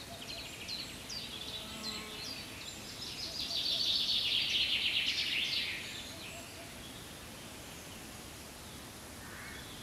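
Birdsong: a few short, high, downward-sweeping chirps, then a loud rapid high trill for about three seconds that stops around six seconds in, leaving faint background hiss.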